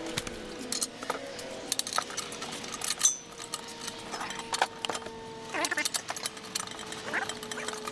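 Irregular metallic clicks and clinks of hand tools and metal parts being handled during exhaust work, with a faint steady hum underneath.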